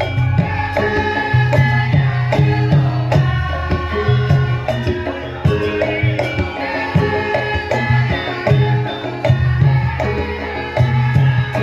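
Javanese gamelan playing live: ringing metallophone and gong notes over a steady pattern of hand-drum strokes.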